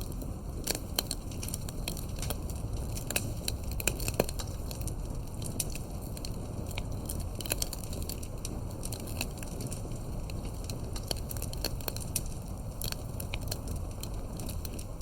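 Campfire burning with a steady low rush of flame and frequent, irregular crackles and pops, a few sharper pops standing out.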